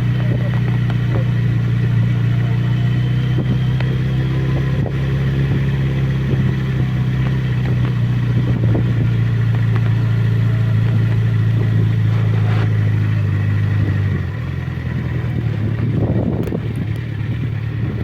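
Motorcycle engine idling steadily, dropping to a lower, weaker level about fourteen seconds in. A short noise near the end.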